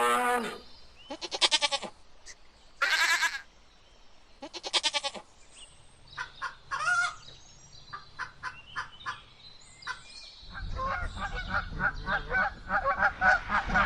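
A string of farm animal calls: three separate wavering calls in the first five seconds, then a scatter of short, clipped calls, and near the end a fast run of calls over a low rumble.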